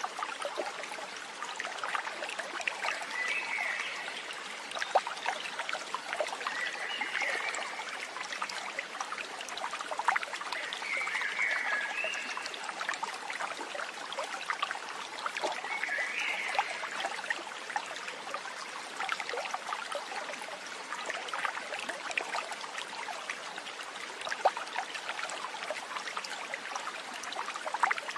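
A stream trickling and babbling steadily, with four short calls spaced about four seconds apart in the first half.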